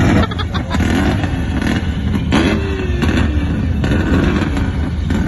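Several car engines running and revving loudly in a lot where cars are sliding around, with a few sharp bangs, the loudest about two and a half seconds in.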